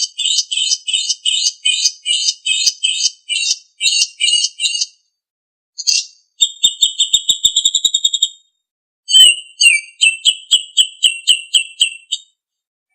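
Songbird song: sharp, high repeated notes at about three a second for the first five seconds. After a short break comes a fast trill of about eight notes a second. A pause follows, then another run of quick repeated chirps near the end.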